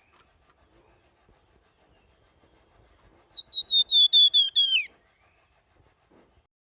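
Flamboyan songbird whistling one fast phrase of about eight short, clear, high notes at nearly the same pitch, with the last note sliding downward. The phrase comes about three and a half seconds in and lasts about a second and a half.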